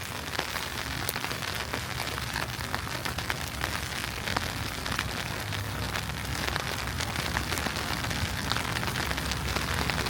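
Steady, irregular pattering of wet falling snow, many small ticks over an even hiss, with a steady low city rumble underneath.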